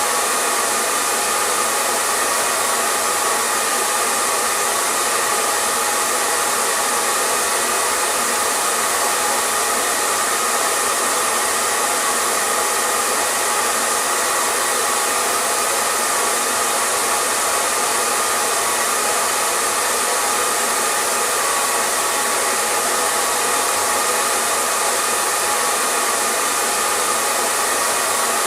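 Hair dryer running steadily with a constant airy whoosh and a faint motor whine, no change in speed.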